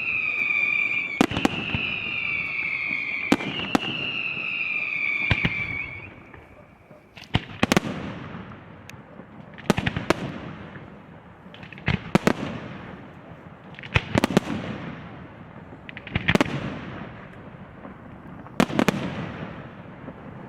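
Aerial fireworks display. For the first six seconds, high whistles that slowly fall in pitch run over sharp bangs. Then loud shell bursts follow about every two seconds, each trailing off in a rumbling echo.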